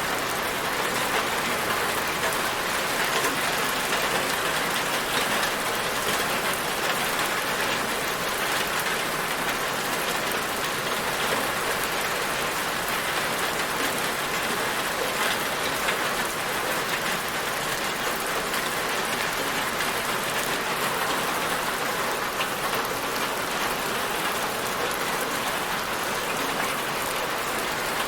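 Steady rain falling, a dense, even patter of drops with no change in strength.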